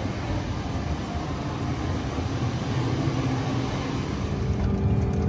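Steady rushing and low hum of a CRJ-900 airliner's cabin parked at the gate, with the ventilation air running before pushback. Near the end the high hiss drops away and a few faint steady tones come in.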